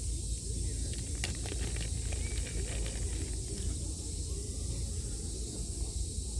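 Wind rumbling on the microphone over a steady hiss from the seashore, with a quick run of sharp clicks about a second in.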